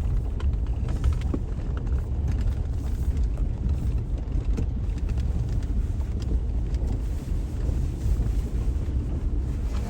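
Steady low rumble of a car on the move, with faint scattered clicks over it.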